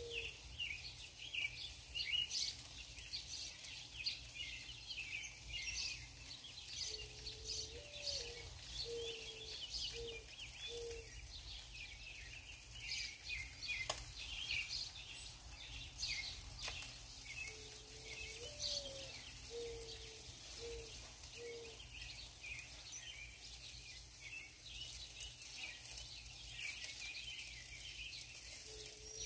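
Small birds chirping continuously, with a dove cooing a low phrase twice: one rising note followed by four short coos, about ten seconds apart, and a third phrase starting at the end.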